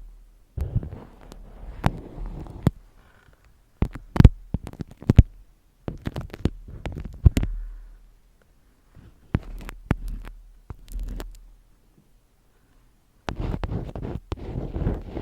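Close-miked ASMR handling sounds: bursts of low rubbing and rustling broken by sharp taps and clicks, with short silent pauses in between.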